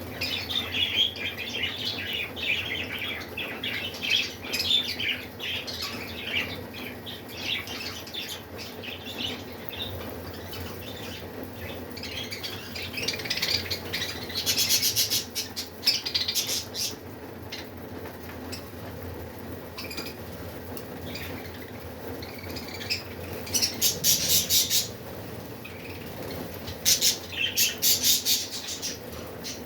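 A flock of budgerigars chattering and squawking, with several short bursts of rapid fluttering, likely wing flaps, about halfway through and near the end.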